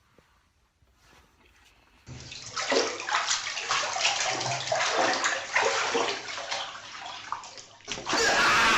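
Near quiet, then about two seconds in a loud rush of splashing, sloshing water starts suddenly and runs unevenly. Near the end it changes abruptly to a different, louder rush of noise.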